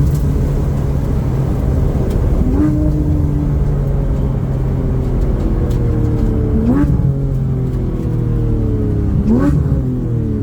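Porsche 991 GT3 RS 4.0-litre naturally aspirated flat-six running through an IPE titanium full exhaust with catted headers. The engine note jumps up sharply three times, about 2.5, 6.7 and 9.4 seconds in, and each time winds slowly back down.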